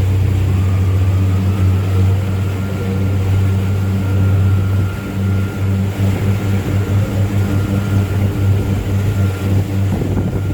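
Boat's outboard motors running with a steady low hum, becoming more uneven about halfway through.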